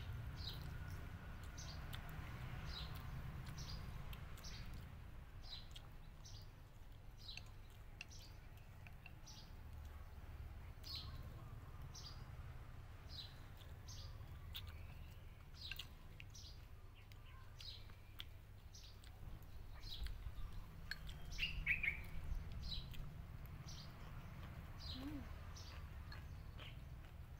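A bird repeating a short, high, falling chirp over and over, a little faster than once a second, over a low steady rumble. About twenty seconds in there is a brief cluster of clicks, the loudest moment.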